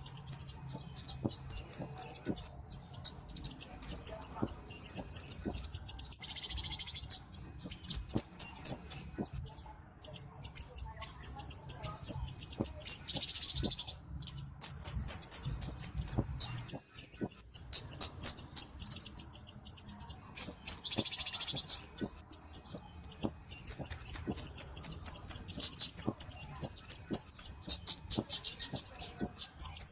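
Flowerpecker (cabe-cabean) singing: long runs of rapid, very high-pitched ticking twitter, broken by a few short pauses.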